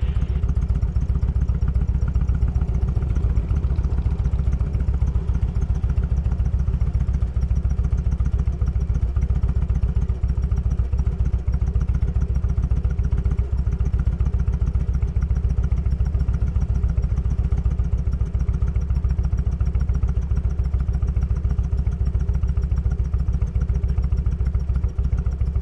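Motorcycle engine running steadily, heard from the rider's seat, with an even low firing pulse.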